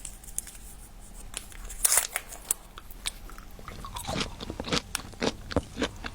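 Close-up mouth sounds of someone biting and chewing bubble gum: an irregular run of sharp clicks and crunches, coming thicker after about four seconds.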